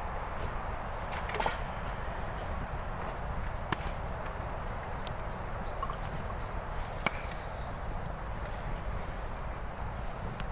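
Woodland ambience: a steady rushing background with a few sharp knocks. About halfway through, a small bird gives a quick run of about eight short high chirps.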